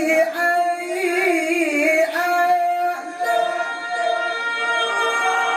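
A male qari's melodic Qur'an recitation: the word "fa-bi-ayyi" drawn out into long, high held notes with ornamented wavers, in the tajwid chanting style.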